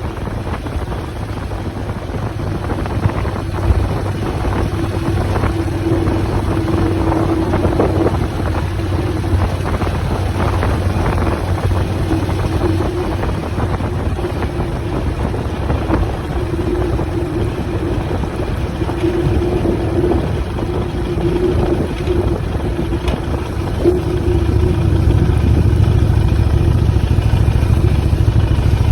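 Motorcycle engine running steadily with a low rumble, growing louder about three quarters of the way through.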